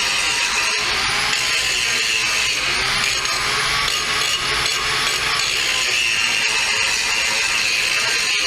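Angle grinder grinding down weld beads on a steel plow: a steady, loud grinding noise whose pitch wavers as the disc is worked against the metal.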